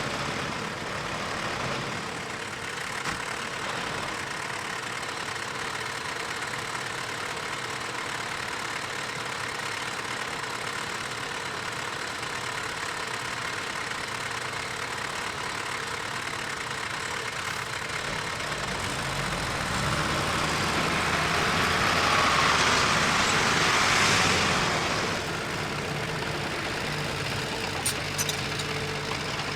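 Diesel engine of heavy earthmoving machinery running steadily, growing louder about two-thirds of the way in to a peak, then dropping back.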